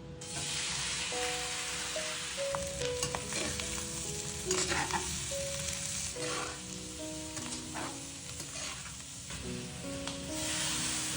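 Food sizzling as it fries in a hot pan, a steady hiss with a few sharp scrapes or knocks through the middle, under a soft background song.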